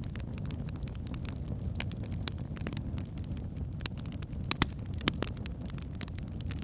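Wood fire burning in a fireplace: a steady low rumble of flames with scattered crackles and pops from the burning logs, two sharper pops about four and a half and five seconds in.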